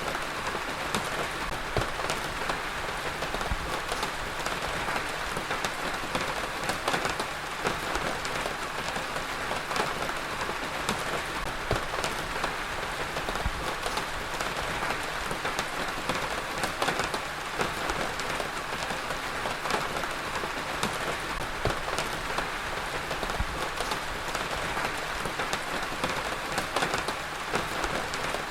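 Heavy rain falling steadily, a dense even hiss with many individual drops ticking on a hard surface.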